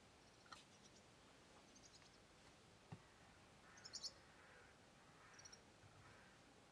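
Faint outdoor garden ambience with a few short, high bird chirps and one soft click about three seconds in.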